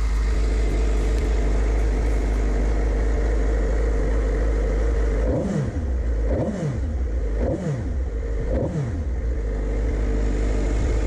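2005 Suzuki GSX-R750's inline-four engine running steadily at idle, then blipped four times in quick succession about halfway through, each rev rising and falling about a second apart before it settles back to idle.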